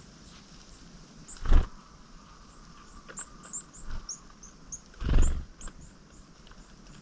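Small songbirds calling in a run of short, thin, high-pitched notes, with two loud, brief low bursts of noise, one about a second and a half in and a longer one about five seconds in.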